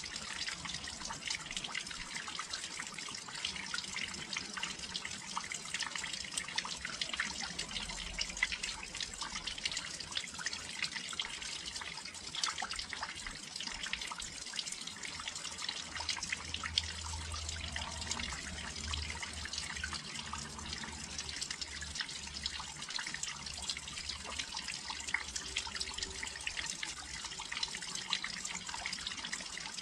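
Steady rain falling near a windowsill: a dense patter of drops and splashes over an even hiss. A faint low rumble runs underneath for several seconds in the middle.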